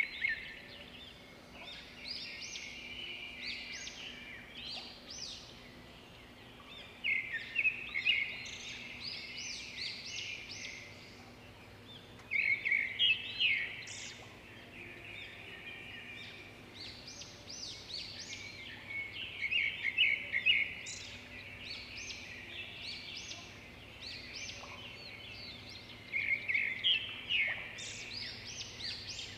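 Birds calling: quick high chirps and trills in bouts every few seconds.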